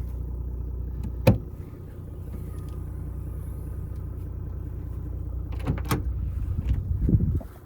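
Toyota Land Cruiser 100 Series 4.2-litre straight-six turbo diesel running at idle. About a second in, a single sharp thump, after which the engine sounds quieter; a few more knocks come later.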